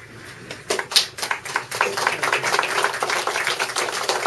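Audience applauding, the clapping starting under a second in and growing into a steady, dense patter.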